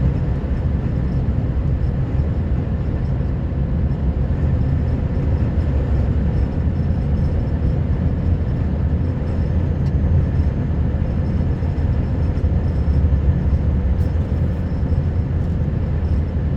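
Scania R560 truck's V8 diesel engine running steadily, a low drone with road noise, as the truck climbs.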